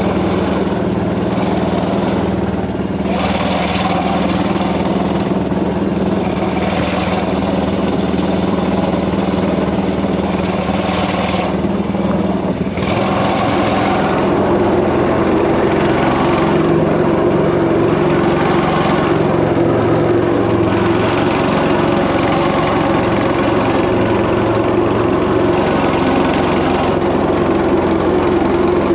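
Predator 212 single-cylinder four-stroke engine running steadily in a small homemade jet boat, its pitch rising about halfway through as it speeds up. Several short bursts of rushing hiss come and go over the engine sound.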